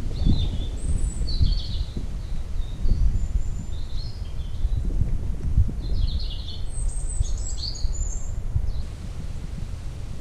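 Small songbirds chirping and singing in short, quick phrases, which stop about nine seconds in, over a low, uneven rumble of wind on the microphone.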